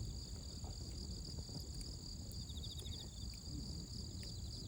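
Crickets and other insects chirping steadily in a high, continuous ring, with a faster pulsing trill starting about halfway through. Underneath are a low rumble and a few faint crackles from the campfire.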